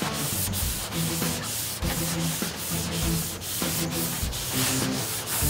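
Long hand sanding block with 220-grit paper rasping back and forth over high-build primer on a steel truck bed side, about two to three strokes a second, block-sanding the primer straight before paint.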